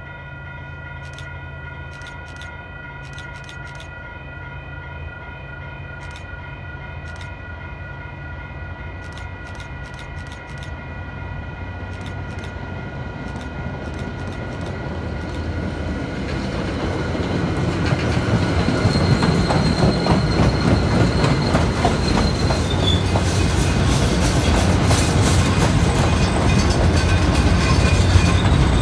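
MBTA commuter rail train approaching and passing close by, cab car leading and the diesel locomotive pushing at the rear. It is faint at first, with steady high ringing tones, then its rumble and wheel clatter grow from about halfway through and are loudest near the end, with a brief high wheel squeal.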